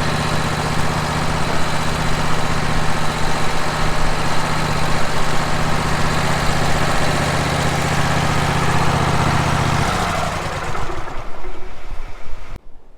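Wood-Mizer LT15 sawmill's engine running steadily. About ten seconds in its pitch falls as it winds down, and the sound cuts off abruptly shortly before the end.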